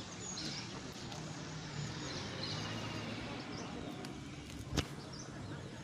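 Wild birds chirping over a low steady hum, with a single sharp knock near the end.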